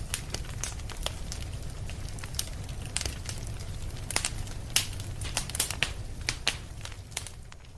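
Wood fire crackling in a fireplace: irregular sharp pops and snaps over a steady low rumble, the pops coming thickest in the middle of the stretch.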